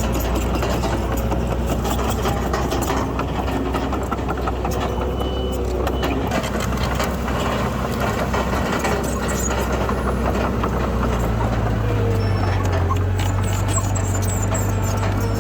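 Diesel engine of a Komatsu D31PX crawler bulldozer running steadily under work. About eleven seconds in, a second, deeper engine note joins it.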